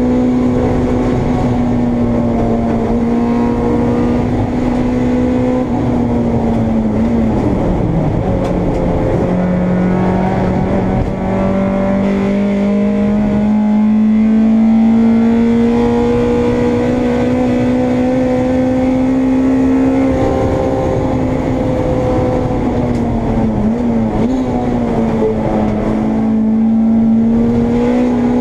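Honda Integra race car's engine heard from inside the car, running hard at high revs. Its note drops twice, about a quarter of the way in and again near the end, and each time climbs slowly back up, as with gear changes and accelerating out along the track, over a steady rush of road and wind noise.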